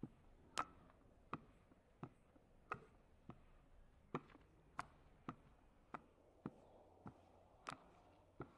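A knife chopping on a cutting board: a steady run of single sharp knocks, roughly one every half second to second.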